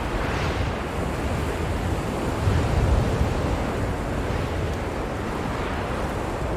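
Blizzard wind blowing in a steady rush, with a low gust swelling up about two and a half seconds in.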